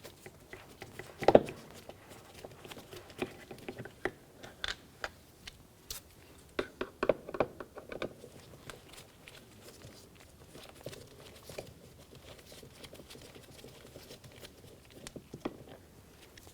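Scattered clicks and light knocks of a screwdriver and plastic door trim being handled while two Phillips head screws are backed out of the interior door handle surround, with one sharper knock about a second in.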